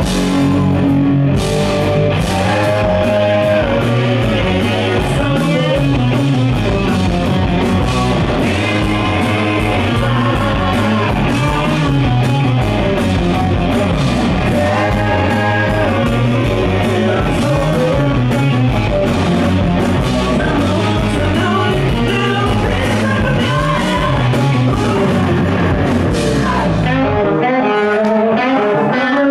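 Rock band playing live at full volume, with electric guitar over bass and drums. About 27 seconds in, the bass and drums drop out and only the higher parts carry on.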